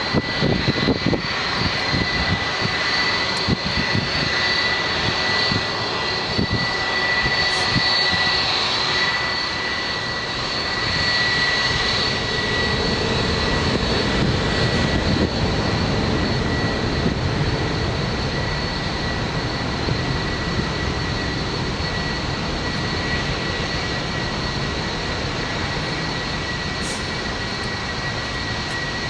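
Jet airliner engines running, a continuous rumble with a steady high whine over it.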